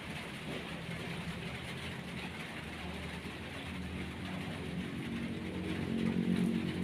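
An engine running, with its hum growing louder over the last couple of seconds, over a steady hiss.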